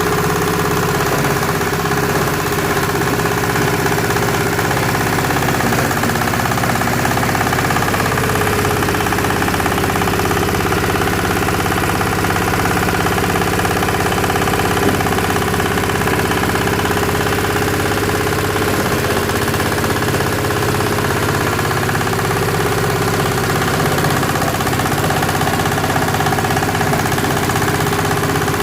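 SM-30 compost and organic-waste shredder-grinder running steadily, its motor and cutting drum giving an even mechanical drone.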